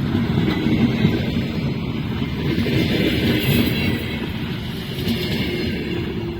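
Passenger train hauled by an EP20 electric locomotive rolling into the station: a steady rumble of wheels on the rails, easing off a little about four seconds in.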